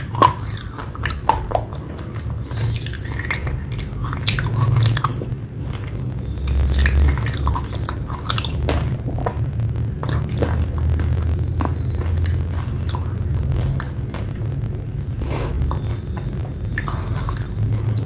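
Close-miked chewing of wet red clay paste: irregular soft crunches and sticky clicks in the mouth, over a steady low rumble.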